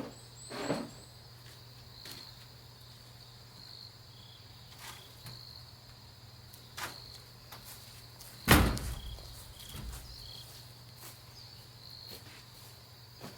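Crickets chirping in a steady, pulsing chorus, with a few scattered clicks and knocks and one loud thump about eight and a half seconds in.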